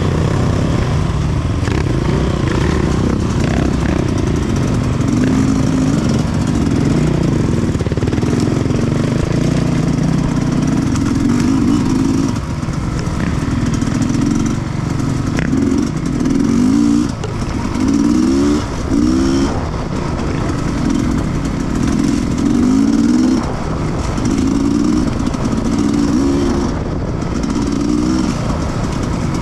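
Sherco 300 two-stroke enduro motorcycle engine being ridden, revving up again and again with brief drops in throttle between the pulls.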